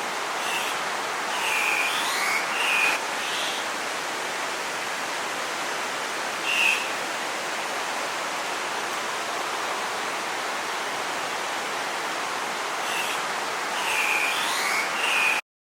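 Steady rushing of a stream or waterfall with bird calls over it: short harsh squawks in small clusters near the start, once in the middle and again near the end, plausibly Andean cock-of-the-rock. The sound cuts off suddenly near the end.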